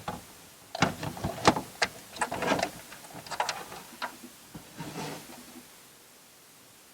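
Irregular plastic clicks, taps and handling noises of hands working an interior car light's housing and LED bulb, stopping about five and a half seconds in.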